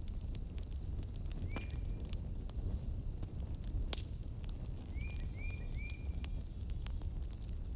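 Wood fire crackling with scattered sharp pops over a steady low rumble, with a steady high-pitched drone behind it. There is a short chirp about a second and a half in and three quick chirps in a row about five seconds in.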